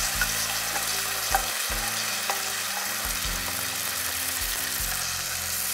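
Ground onion, curd and spice paste sizzling in hot oil and ghee in a kadai as it is stirred with a spatula: a steady frying hiss with a few small pops.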